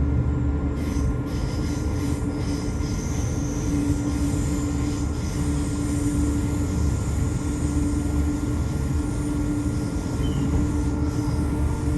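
Brisbane suburban electric train running, heard from on board: a steady rumble of wheels on rail with a constant motor hum. A faint high wheel squeal sits over it from about a second in.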